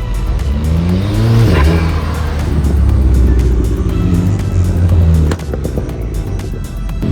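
A car engine revving: its pitch climbs and then drops sharply about a second and a half in, after which it runs steadily until it cuts off suddenly about five seconds in. Music plays underneath.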